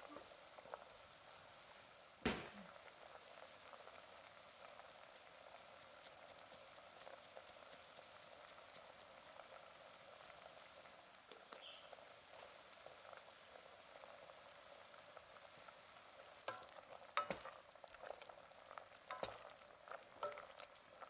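Bacon and vegetables cooking in a pot on the stove: a faint, steady sizzle with fine crackling. There is one knock about two seconds in, and a few clicks and knocks near the end.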